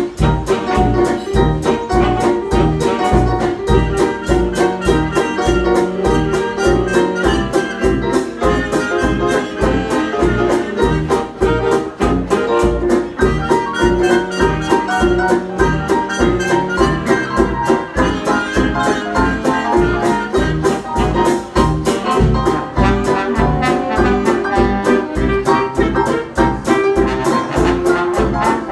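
Instrumental dance-band jazz: brass and strummed banjo over a steady, even beat in the bass.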